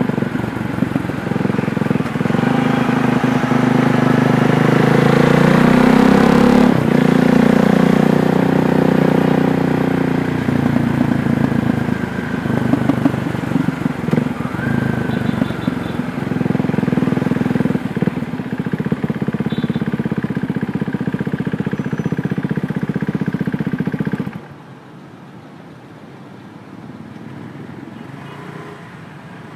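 KTM Duke 390's 373 cc single-cylinder engine running under way, revving up over the first several seconds with a brief dip about a third of the way in. It then runs more steadily. Near the end the level drops sharply and the engine goes much quieter.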